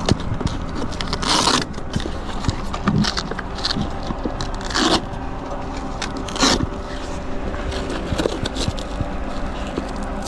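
Handling noise of a bag being taken off an e-bike: short scrapes, rustles and clicks, the loudest scrapes about a second and a half, five and six and a half seconds in, over a steady low hum.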